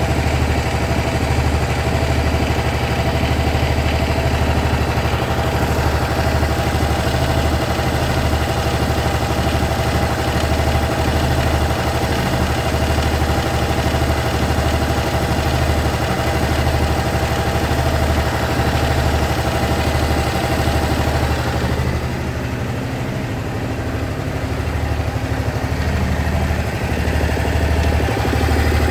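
Honda SH 300i scooter's single-cylinder engine idling steadily with a ticking noise. The owner is sure the tick is the sign of something going wrong, though mechanics have called it nothing. The sound drops a little in level for a few seconds about 22 seconds in.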